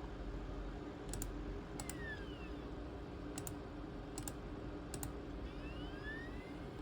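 Computer pointer buttons double-clicked about five times in quick succession, over a steady low hum.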